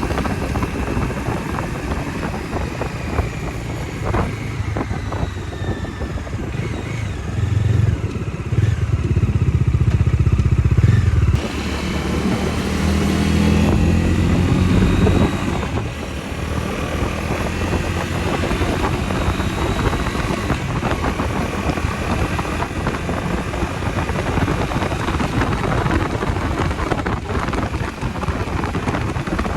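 Bajaj Dominar 250's single-cylinder engine running under way. It pulls harder about eight seconds in, drops off suddenly around eleven seconds, builds again, then eases off at about sixteen seconds and runs steadily.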